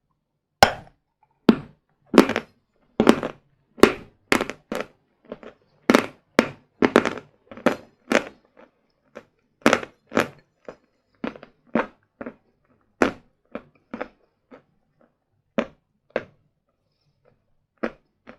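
Close-up crunching of a person biting and chewing hard sawn chalk bars: a string of sharp, dry crunches, tightly spaced at first and thinning out towards the end.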